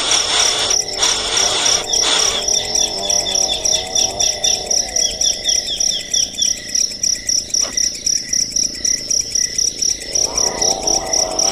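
Baby birds chirping: a steady, rapid high-pitched pulsing of about five notes a second, with a run of short quick chirps from about two to five seconds in.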